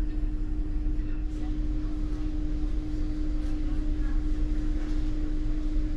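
Steady drone of a car ferry's machinery heard on board at sea: a low rumble with one constant hum tone.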